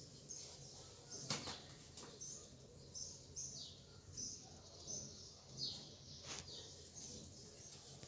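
Faint, repeated short high chirps of a small bird, several of them sliding down in pitch, with two soft clicks, one about a second in and one about six seconds in.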